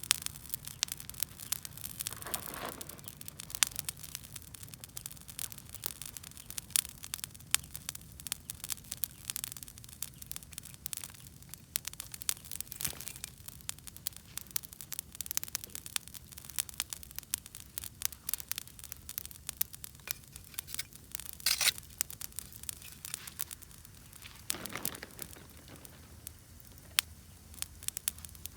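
Wood fire crackling with many irregular sharp pops, and a few brief louder hisses.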